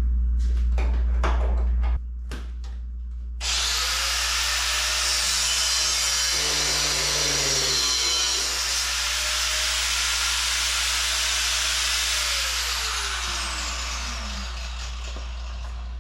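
Power tool cutting through a steel wrench to shorten it. It starts about three and a half seconds in with a rising whine and runs on as a harsh, steady hiss, and its pitch sinks over the last few seconds. A few light clicks come before it starts.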